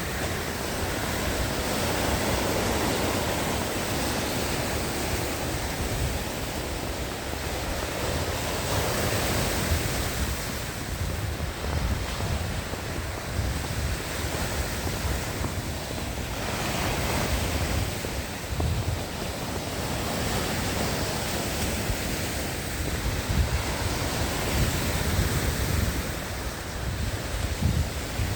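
Lake Ontario waves washing onto the shore, a steady rushing that swells and eases every several seconds, with wind gusting against the microphone in a low rumble.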